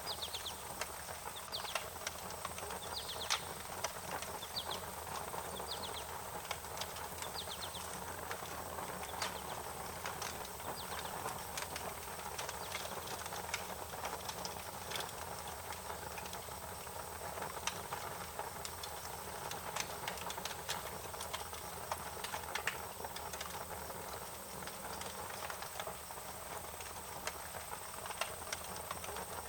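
Wood fire crackling: irregular sharp pops and snaps over a steady hiss. A few short, high, rapid bird chirps come in over the first eight seconds or so.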